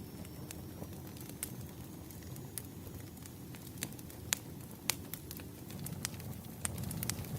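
Wood fire crackling: a low steady rumble of burning with scattered sharp pops and snaps, two louder ones a little past the middle.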